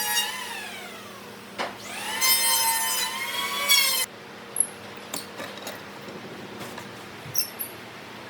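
A small high-speed power tool motor whining as it winds down, then spinning back up about a second and a half in and running steadily. It stops abruptly about four seconds in, and a few light clicks and knocks follow.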